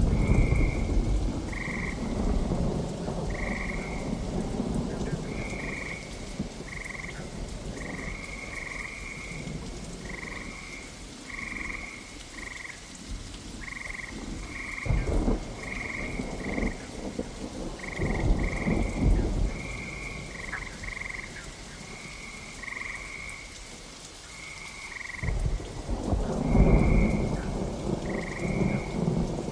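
Steady rain falling, with rolling thunder that swells several times, loudest near the end. Over it, a frog croaks in short repeated calls, roughly one a second.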